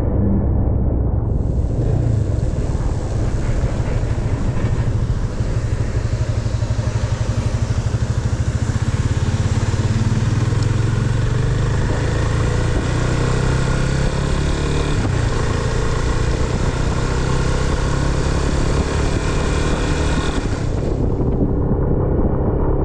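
Motorcycle engine running while riding along a road, a steady low pulsing rumble, with a broad rush of wind and road noise that starts about a second in and drops away shortly before the end.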